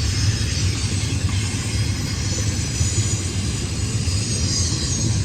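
Intermodal freight train's container cars rolling past, a steady low rumble with wheel noise on the rails.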